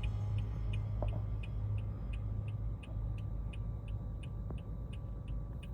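Steady low rumble of a moving train car heard from inside, with a faint, even ticking a little over four times a second.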